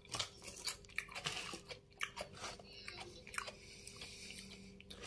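A person chewing crunchy food, freshly bitten cucumber slice, with many short, irregular crunches.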